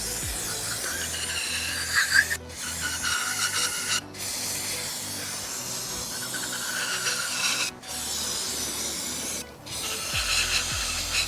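Rubbing and wiping noise from a rag worked over a crankshaft during cleaning, heard as short stretches broken by several abrupt cuts.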